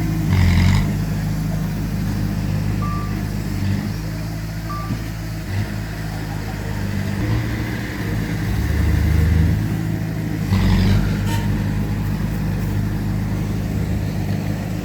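Diesel engines of heavy earthmoving machinery, a bulldozer and dump trucks, running and changing pitch under load. Two short high beeps come a couple of seconds apart, and there are brief louder noisy bursts about half a second in and near eleven seconds.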